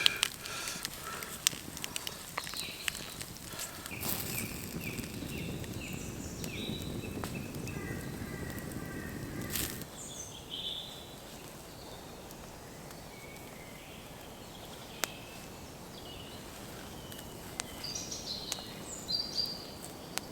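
Woodland birds calling and singing in short repeated chirps, with a few sharp crackles from the campfire.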